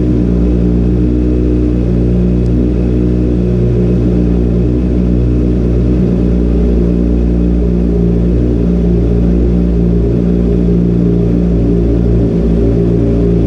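Honda CBR650R's inline-four engine idling steadily while it warms up.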